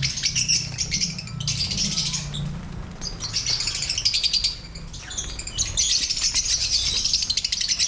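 Many caged lovebirds chattering together: rapid, high-pitched chirps and squeaks that swell and ease in waves, with brief lulls.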